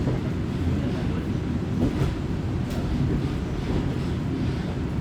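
Diesel railcar running, heard from inside the passenger cabin: a steady low rumble of engine and wheels on the rails, with a few faint clicks.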